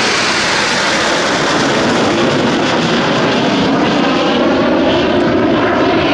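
Jet engine noise from Aermacchi MB-339 PAN jets flying past, a loud steady rush with a whine that falls in pitch during the first second or so.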